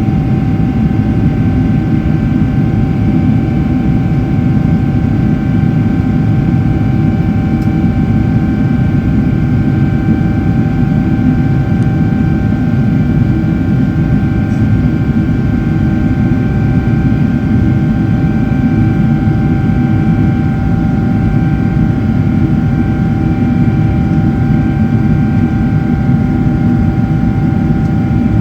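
Boeing 777-300ER's GE90-115B turbofan engines and airflow heard inside the cabin in flight after takeoff: a loud, steady rumble with a constant whine of several steady tones over it.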